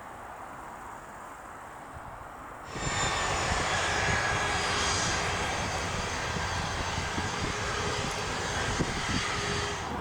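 Twin turbofan engines of a Pilatus PC-24 business jet running: a loud, steady rush with several high whining tones. It comes in abruptly about three seconds in, after a quiet background.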